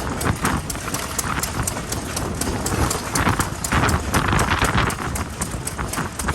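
Old single-cylinder stationary farm engines running with a quick, even knocking beat. A rushing noise swells for a couple of seconds in the middle.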